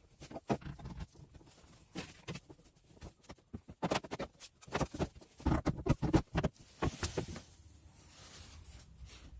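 Irregular light knocks, taps and clatter, bunched in quick clusters, with a short scraping hiss about seven seconds in, then quiet room hum.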